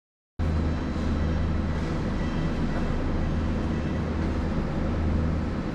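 Electric train running: a steady rumble with a strong low hum. It cuts in abruptly out of silence about half a second in.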